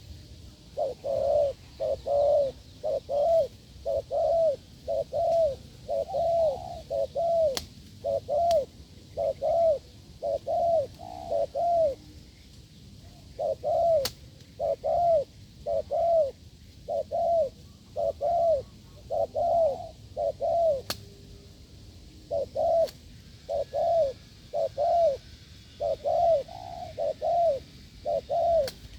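Spotted dove giving its bow-coo, a rapid run of short, hard coos, about three every two seconds. It goes in three long runs broken by brief pauses. A few faint clicks are heard as well.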